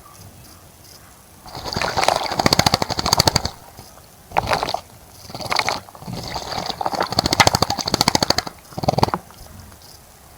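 A bird bathing in a bird bath, fluttering its wings rapidly in the water in five bouts of splashing, the longest lasting about two seconds.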